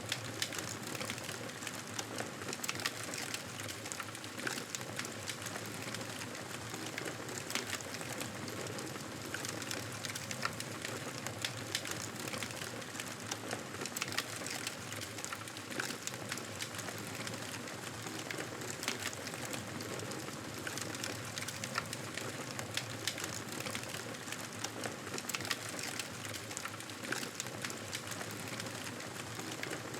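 Wood fire crackling in a fireplace: a steady hiss with frequent sharp irregular pops and snaps.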